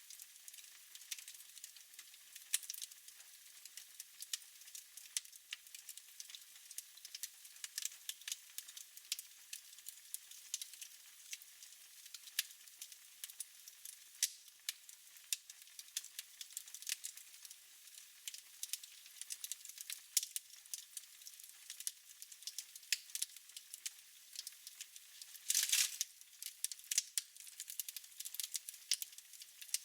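Wood fire crackling in a fireplace: a constant stream of irregular sharp snaps and pops, with a brief louder hiss and flurry of crackles near the end.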